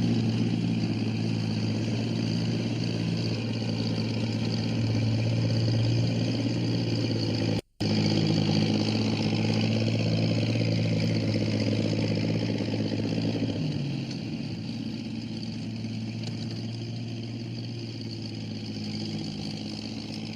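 An engine running steadily. It cuts out for an instant about eight seconds in, then resumes, and settles to a quieter, lower running sound about two-thirds of the way through.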